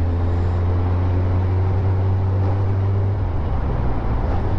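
Motorcycle engine running steadily while riding, with wind and road noise. The engine note changes about three seconds in, then settles again near the end.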